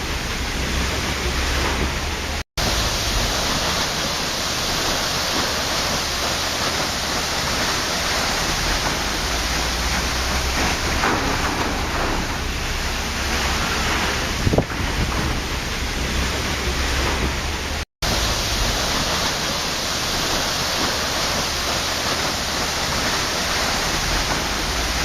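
Waterfall: a steady, even rush of falling water, with no other sound above it. The sound cuts out completely for an instant twice, once near the start and once about three-quarters of the way through.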